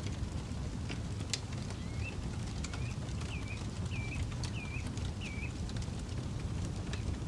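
Campfire crackling with scattered sharp pops over a steady low rumble. About two seconds in, a bird calls six times in a row: short hooked notes about half a second apart.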